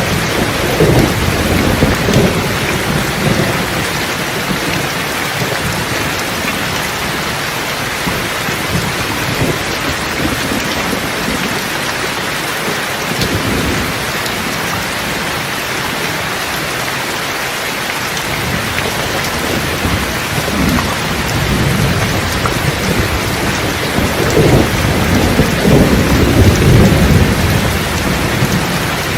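Thunderstorm: steady heavy rain with rolling thunder rumbling at the start and building again in the second half, loudest near the end.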